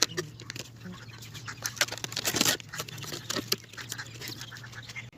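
Fast-forwarded handling of adhesive tape and paper: a rapid, irregular run of short clicks and crinkles over a low steady hum.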